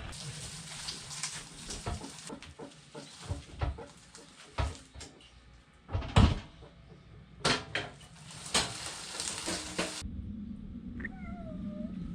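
Irregular knocks and clatter, several of them sharp and loud, then a cat meows once near the end.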